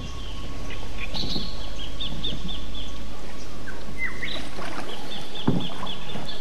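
Small birds chirping in runs of short, quickly repeated falling notes, over a steady low rumble of wind. One soft knock sounds near the end.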